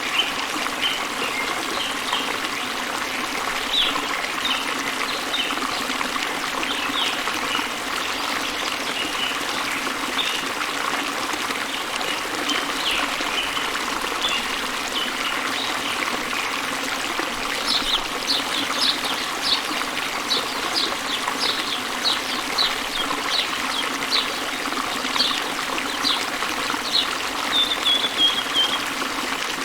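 Waterfall rushing steadily, with birds chirping over it. Scattered chirps at first, then from about two-thirds of the way in, a quicker run of sharp, repeated chirps.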